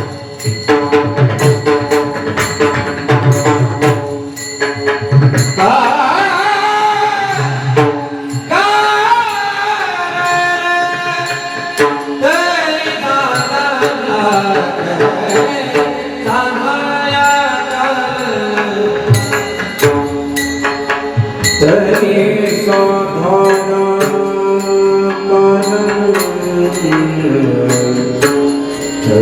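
Pakhawaj drumming, then about five seconds in a male singer comes in with long, sliding devotional phrases over the drum.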